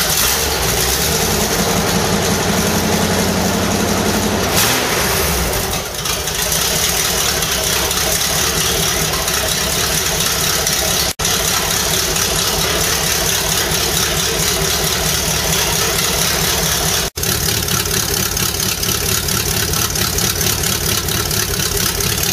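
Chevrolet 267 small-block V8 running on a cold start: a brief rev in the first few seconds, then a steady idle through a loud exhaust.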